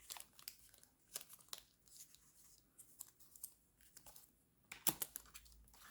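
Faint paper rustling and crinkling as sticker packs are handled, in scattered short bursts; a louder rustle about five seconds in.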